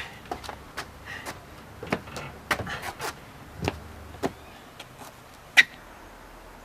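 Footsteps and knocks of people moving through the house: a run of irregular sharp clicks and knocks, the loudest about five and a half seconds in.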